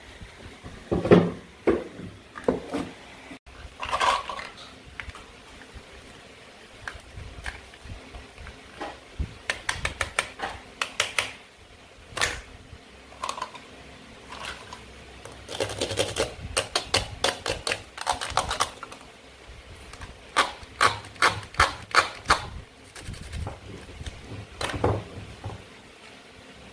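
Toy play-food pieces and a toy knife clicking and tapping, with single knocks and quick runs of several clicks in a row.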